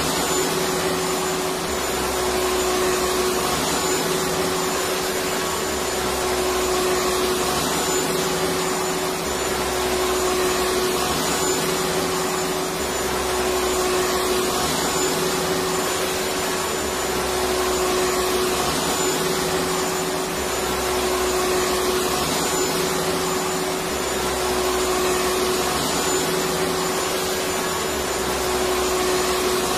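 Electric vacuum cleaner running steadily, a dense rushing noise with a steady hum and a faint high whine, and a low rumble that swells and drops every couple of seconds.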